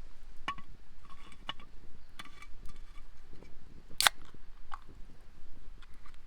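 A scattered series of small clicks and light knocks from objects being handled, several with a brief ringing clink; the sharpest click comes about four seconds in.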